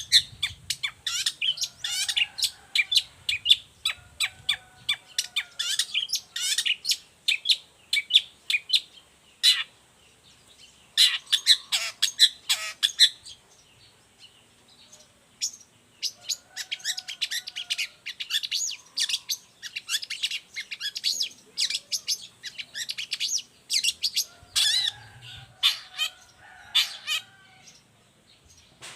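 Long-tailed shrike (cendet) singing vigorously: fast runs of sharp, chattering notes, broken by a couple of short pauses, trailing off near the end.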